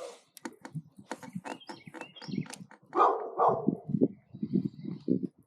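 A dog barking: two loud barks in quick succession about three seconds in, with light clicks before them and softer low sounds after.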